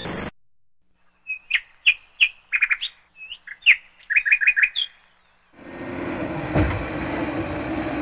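A songbird singing in short chirps and quick runs of notes. About two-thirds of the way in, an engine comes in, running steadily.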